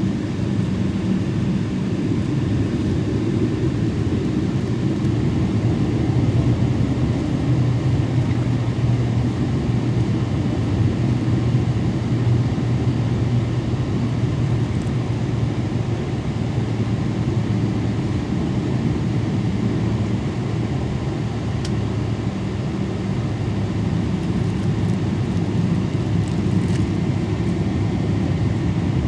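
Steady in-flight cabin noise aboard a Boeing 777: a constant low rumble of engines and airflow.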